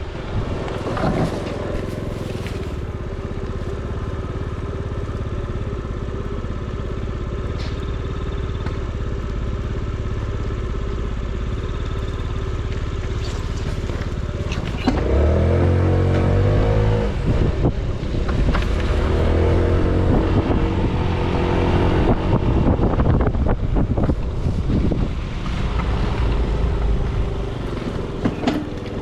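Small motorbike engine running while riding, its pitch rising twice as it speeds up: once about halfway through and again a few seconds later.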